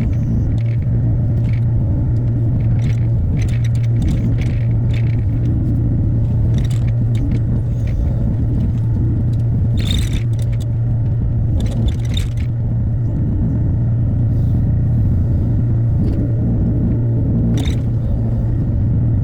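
Hyundai HX60A excavator's diesel engine running steadily with a strong low hum, while short knocks and scrapes of the machine working come through a few times, clearest about ten, twelve and seventeen seconds in.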